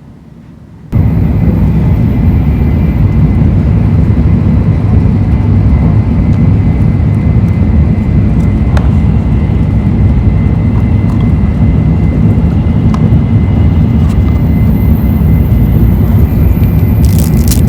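Tokaido Shinkansen train running at speed: a loud, steady low rumble that cuts in suddenly about a second in, with a few faint clicks and rattles near the end.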